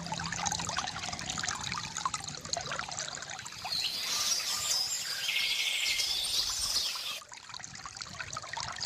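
Water from a bamboo fountain trickling and splashing steadily. Through the middle few seconds, birds chirp and trill high above the water.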